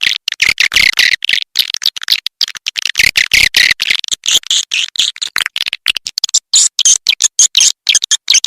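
Recorded chorus of edible-nest swiftlets twittering in rapid high chirps, broken by many brief drop-outs. This is a swiftlet lure call, the kind played to draw swiftlets into a nest house.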